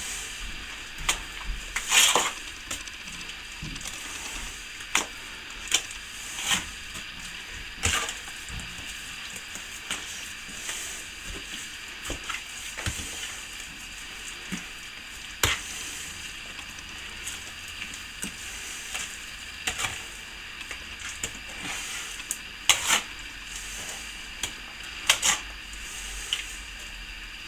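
Trowel working a wet sand-and-plaster mix: irregular scraping and knocking strokes every second or two over a steady hiss.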